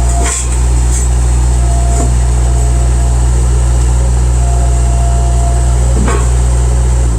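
Bobcat 763 skid steer's diesel engine running steadily, with a faint whine coming and going and a couple of light knocks.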